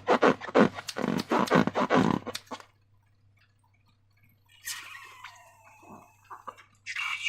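Slime being squeezed and squelched by hand: a quick run of wet squelches for about two seconds, a short silent pause, then quieter sticky squishing that grows louder near the end.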